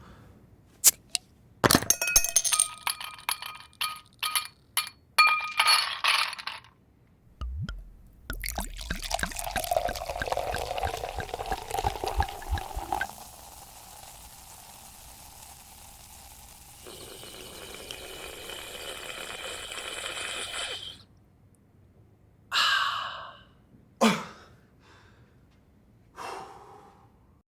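A performer acting out the sounds of serving a Coca-Cola. First come sharp clicks and ringing clinks like ice dropping into a glass, then a thud and a long pouring hiss, then a fizzing hiss. Near the end there are three short breathy sounds like a sip and a refreshed 'ahh'.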